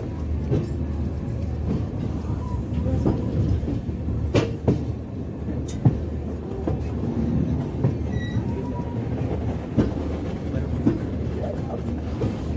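Passenger train running on the track, heard from an open coach doorway. A steady low rumble of wheels on rail is broken by irregular clacks as the wheels cross rail joints, with a couple of sharper clacks around the middle.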